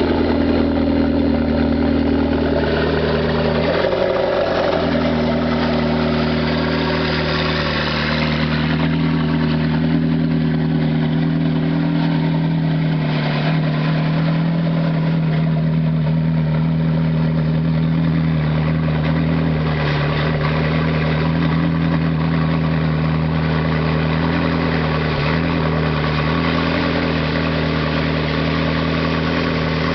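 McLaren MP4-12C's twin-turbo V8 idling steadily, with a brief waver in its note about four seconds in.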